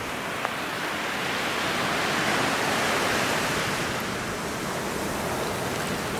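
Ocean surf on the beach: a wave breaks and washes in as a rushing hiss that swells to its loudest around the middle and then eases off.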